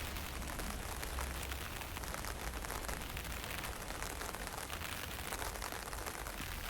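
Steady drizzle pattering with a fine crackle of drops, under a low rumble of wind on the microphone.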